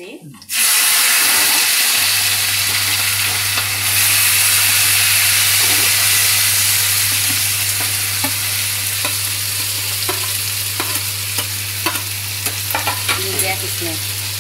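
Chopped onion and tomato tipped into hot oil with cumin in a steel frying pan: a loud sizzle breaks out about half a second in and carries on as steady frying, with scattered clicks and scrapes of stirring. A steady low hum comes in about two seconds in.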